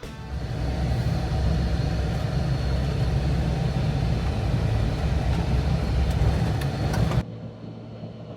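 Jeep driving, with a loud rumble of engine and tyres. About seven seconds in it drops suddenly to a quieter, steadier hum.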